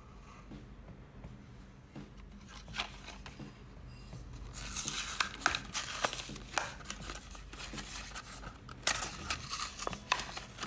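Small hand-handling sounds: light clicks, taps and crinkly scraping, as of small parts or plastic packaging being handled. It is sparse at first and gets busier about four and a half seconds in.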